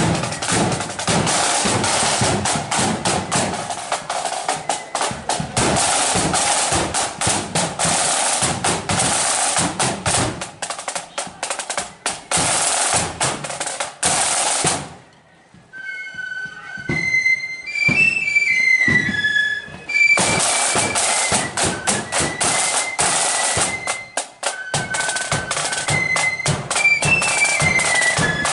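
Marching flute band: snare drums play a rapid rolling beat with bass drum for about fifteen seconds, then break off briefly. The flutes strike up a high melody, and the drums come back in under the tune.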